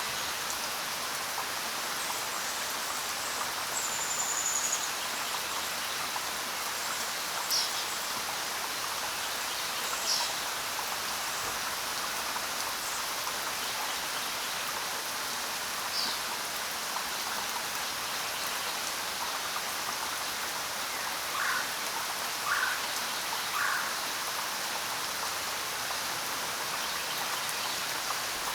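Steady rain falling, with a bird calling now and then: a few short, high chirps and whistles, then three lower calls in quick succession toward the end.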